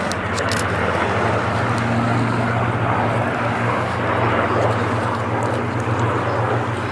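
Propeller-driven Second World War fighter aircraft flying, its piston engine giving a steady drone.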